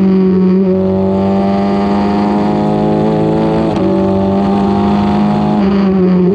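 Formula 4 race car engine running hard on track, its note climbing slowly under throttle, with a brief break about four seconds in, like an upshift, and a drop in pitch near the end.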